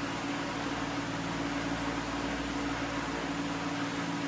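Electric fan running steadily, a constant hum with an even rush of air.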